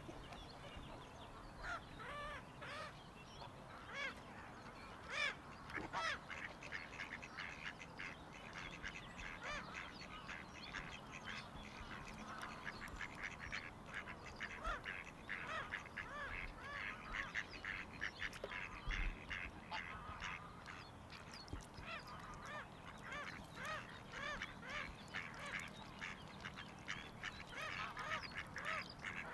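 A flock of birds calling, with many short calls overlapping and growing into a dense chatter about twelve seconds in.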